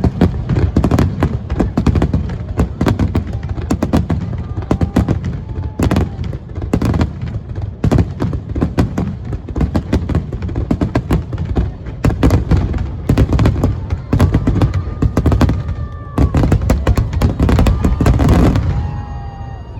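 Aerial fireworks going off in a rapid, dense barrage of overlapping booms and crackles, dying down about a second before the end.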